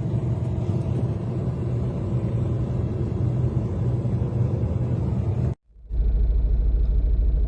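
Steady low rumble that drops out suddenly about five and a half seconds in, then comes back deeper and steady.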